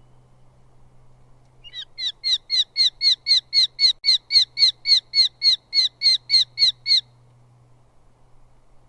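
Eurasian hobby calling a rapid, even series of about eighteen sharp, high notes, three or four a second, which stops abruptly about two seconds before the end. A steady low electrical hum runs underneath.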